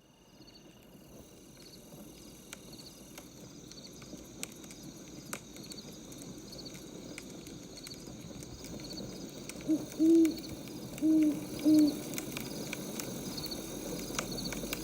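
Wood fire crackling with scattered sharp pops over a steady hiss that fades in, with a faint high chirp repeating evenly in the background. About two-thirds of the way in, an owl hoots four times in two pairs, the loudest sound.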